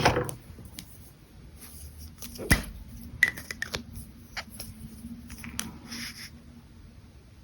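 Brush pen and paper being handled: a run of small clicks, taps and light rustles, with one sharper knock about two and a half seconds in. They stop about six seconds in.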